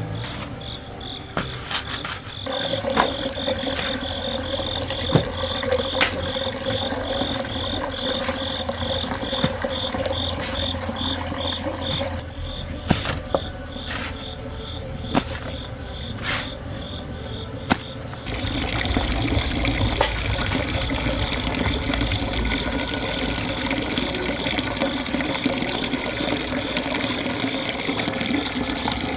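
Insect chirping, a fast, even run of high pulses, with a few sharp knocks. About two-thirds of the way through, a louder steady rushing noise comes in.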